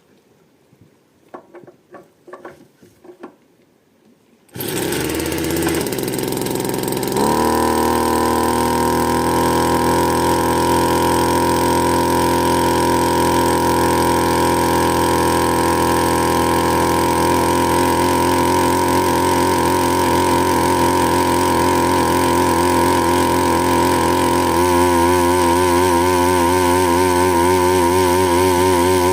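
Bernard Moteurs W14 engine starting about four and a half seconds in, after a few faint clicks. It picks up speed about two seconds later, then runs at a steady speed. Near the end its note begins to waver slightly.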